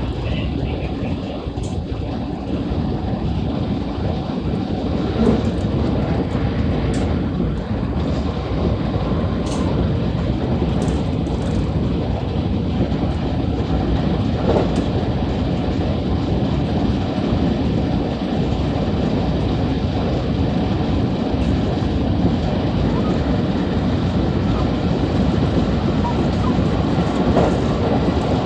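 JR West 223 series electric multiple unit running along the line: a steady rumble of wheels on rail with running noise, a few faint clicks, slowly growing a little louder.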